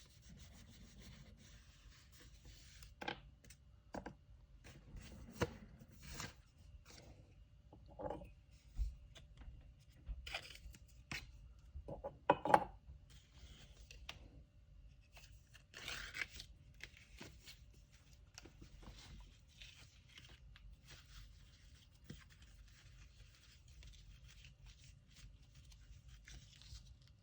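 Packing materials being handled: paper and tape rustling and tearing, broken up by irregular light taps and knocks on a hard surface.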